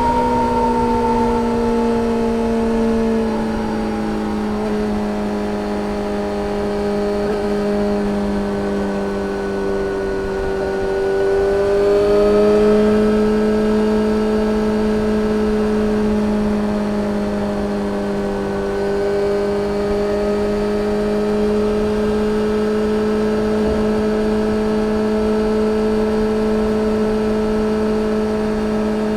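2013 Yamaha XJ6-S's inline-four running through a full Black Widow exhaust with no catalytic converter, while the bike is ridden. The note eases down in pitch over the first ten seconds, picks up a little about twelve seconds in, then holds a steady cruising drone, with a low rumble of wind and road underneath.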